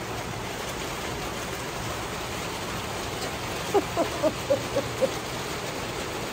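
Steady hard rain falling around a covered porch. About four seconds in, a quick run of six short high-pitched squeaks sounds over it.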